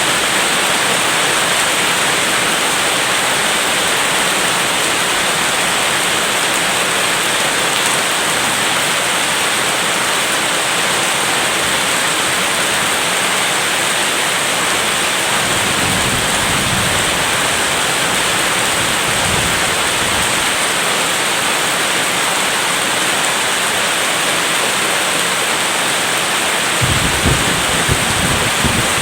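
Steady heavy rain, with low rumbles of thunder about halfway through and again near the end.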